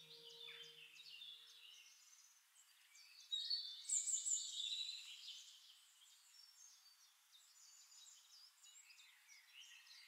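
Faint birdsong: small birds chirping in short, high notes, loudest a few seconds in, as the last of a soft ambient music chord fades out in the first second or so.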